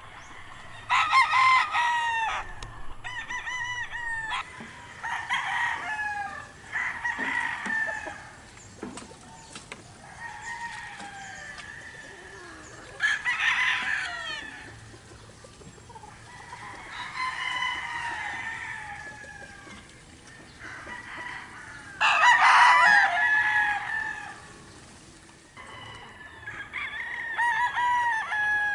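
Several gamefowl roosters crowing one after another, their calls overlapping, with some clucking between the crows.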